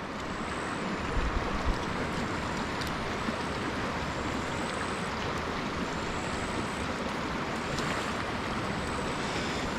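Steady rush of creek water running over rocks, with a few soft knocks about a second in.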